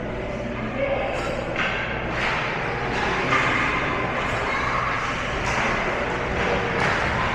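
Indistinct voices in the background, with several scattered sharp knocks or thuds.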